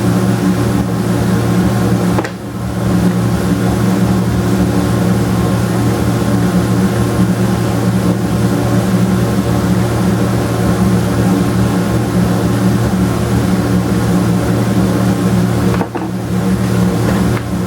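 A steady mechanical hum with a fixed pitch, dipping briefly about two seconds in and again near the end.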